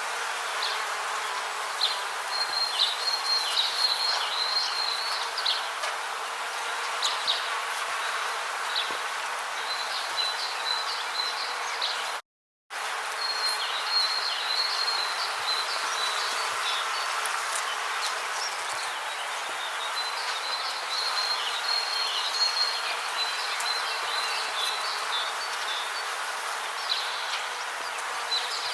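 Rainforest ambience: a steady hum of insects with bouts of rapid, high chirping calls that come and go throughout. The sound drops out completely for about half a second near the middle.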